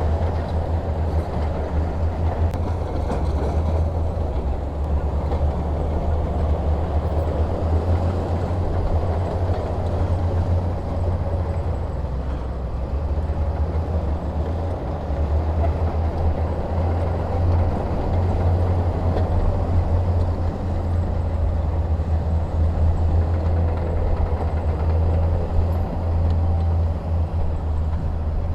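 Heavy diesel engine running steadily: a continuous low rumble with no sharp knocks or breaks.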